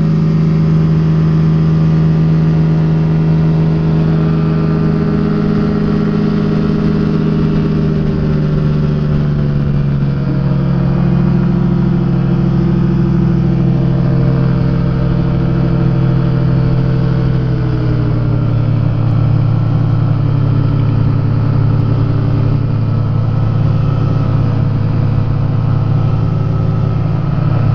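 Rotax two-stroke engine of a Quad City Challenger ultralight running steadily in flight. Its pitch drops in two steps, about a third of the way in and again past the middle, as power is pulled back.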